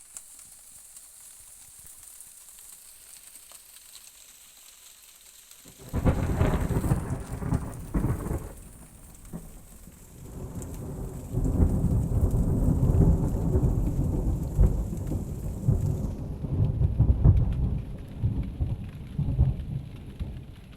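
Close thunder from a night storm: a sudden sharp crack about six seconds in, then a long low rumble that swells again a few seconds later and rolls on.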